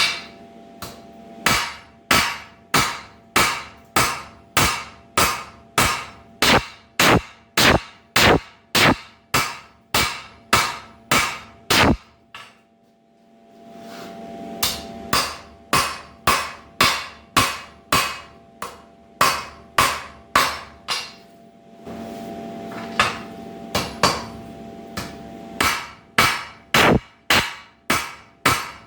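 Hand hammer striking hot square steel bar on an anvil, hand-forging a poker: a steady run of ringing blows at about two a second, breaking off briefly about halfway through before the hammering resumes. A steady hum runs beneath the blows.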